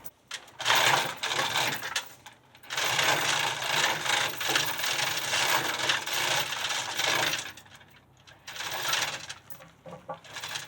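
Metal rattling and scraping in three bursts, the longest about five seconds, over a faint steady hum.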